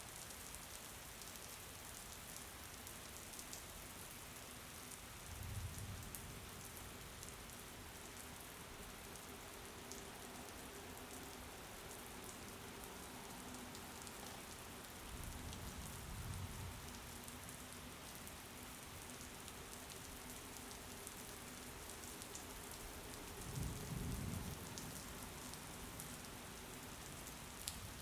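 Steady rain with a fine crackle of drops. Three brief low rumbles come through it, about 5, 16 and 24 seconds in.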